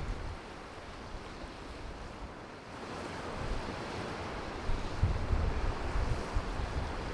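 Wind buffeting the microphone in gusty low rumbles over a steady rushing noise that grows louder about three seconds in.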